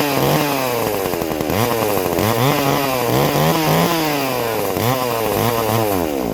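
Small two-stroke chainsaw engine being blipped up and down in quick repeated revs, about two a second, then dying right at the end. It won't hold an idle after a carburettor rebuild, with the low-speed mixture still being set.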